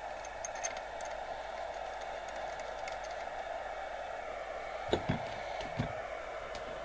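FM CB radio receiver giving a steady hiss of band noise from its loudspeaker, squelch open with no station coming through, after being switched to a roof aerial. A couple of short knocks about five seconds in.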